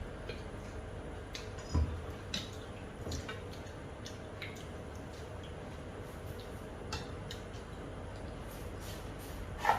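Eating from a bowl of ghugni and puffed rice: scattered soft clicks and taps of utensil and bowl, with a dull thump about two seconds in.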